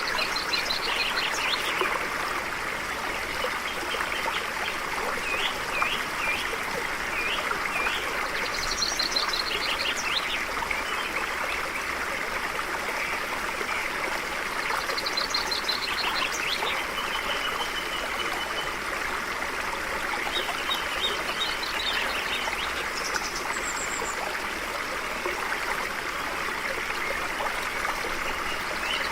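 Stream running steadily, with birds singing over it in short, high trilled phrases that come every few seconds.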